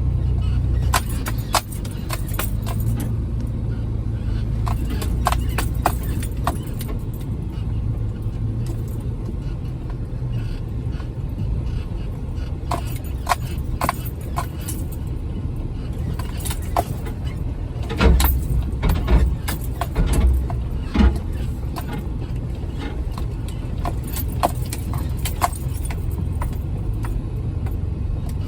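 Jeep Wrangler engine running steadily as the Jeep crawls over a rutted snowy trail. Scattered rattles and knocks come from the jolting, with a few heavier thumps roughly two-thirds of the way through.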